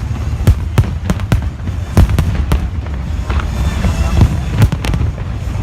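Fireworks display: many sharp bangs at irregular intervals over a continuous low rumble of distant shell bursts.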